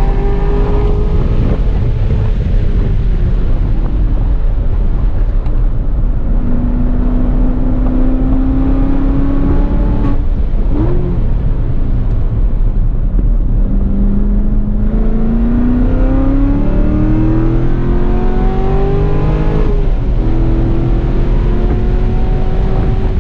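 C7 Corvette Grand Sport's 6.2-litre LT1 V8 at track pace, its note climbing through the revs and dropping back at each gear change, with a quick rev blip about ten seconds in. Heavy wind rumble on the microphone runs under it.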